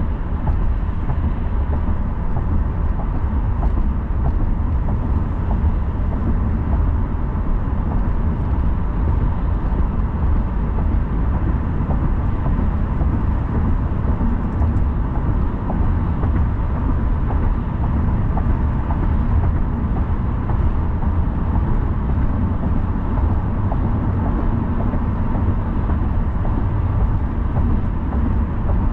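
A car driving along at a steady pace: a constant low road and tyre rumble with engine hum.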